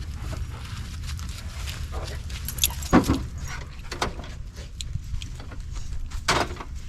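Metal clinking and rattling as gear is handled and set up, with a few louder knocks, the strongest about three seconds in, over a steady low rumble.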